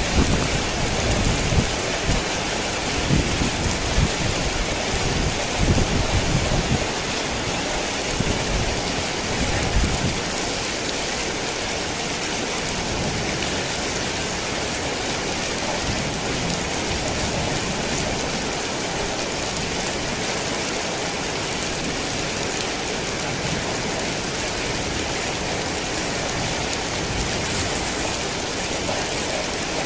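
Heavy rain pouring steadily, with low rolls of thunder rumbling through the first ten seconds or so before fading out.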